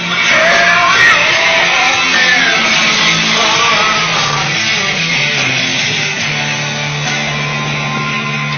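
Loud guitar music playing through a Harley-Davidson motorcycle's custom audio system, kicking in suddenly at full volume.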